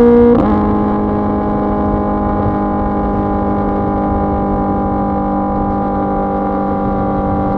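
2024 Kawasaki ZX-10R's inline-four running through an SC-Project CRT exhaust. The engine note drops a step about half a second in, then holds a steady pitch.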